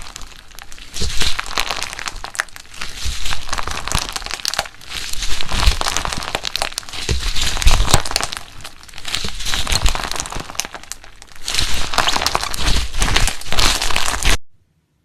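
Slime being squeezed and kneaded by hand, with a dense crackling of tiny pops that comes in repeated waves every couple of seconds and cuts off abruptly near the end.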